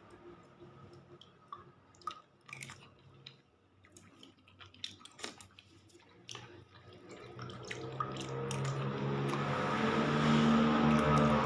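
Scattered light clicks and taps, then from about seven seconds in a motor vehicle's engine grows steadily louder as it approaches, its pitch rising slightly.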